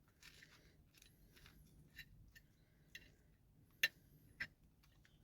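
Faint sounds of someone eating a breakfast muffin: scattered small clicks and crunches, with two sharper clicks close together about four seconds in.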